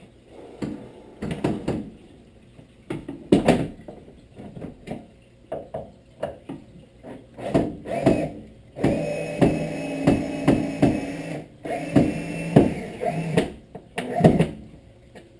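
Knocks and clicks of handling, then a power drill running in two steady bursts of a couple of seconds each, a little past halfway through, with a few knocks around them.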